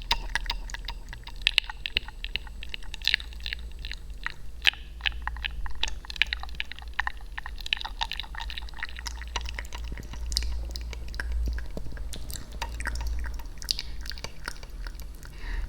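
Close-miked wet mouth sounds: a dense, irregular run of tongue and lip clicks and smacks over a steady low hum.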